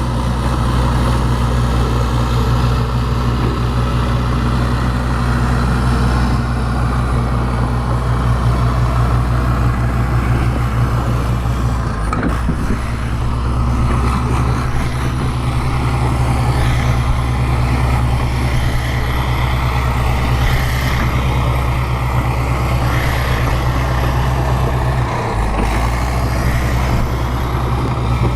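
Bulldozer's diesel engine running steadily and loudly at working speed, with mechanical clatter over it; the engine note briefly wavers about twelve seconds in and again near the end.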